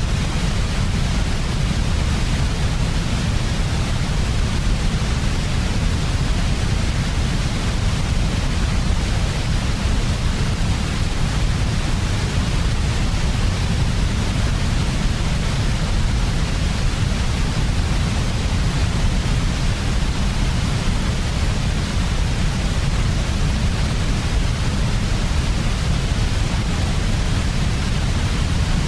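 Steady, unchanging electronic sleep noise: a strong low rumble under a fainter even hiss across the highs.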